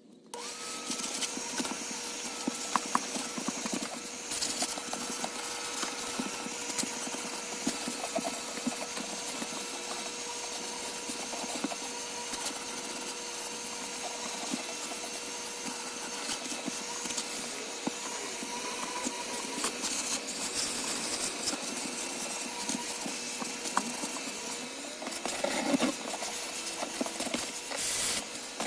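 Vacuum cleaner running steadily with a constant motor whine, starting abruptly just after the opening, while it sucks loose debris out of a car interior with scattered clicks and rattles.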